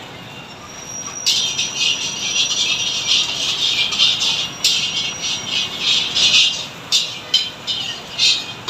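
Food frying in a hot pan or wok: an uneven, high-pitched sizzle that starts about a second in, with a few sharp knocks, likely a spatula against the pan.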